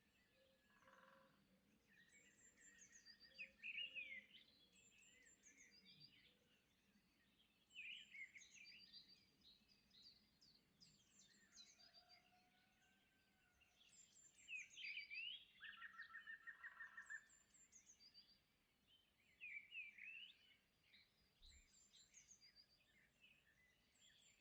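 Faint birdsong: high chirps and quick whistled phrases coming in bursts every few seconds, with a couple of short even trills.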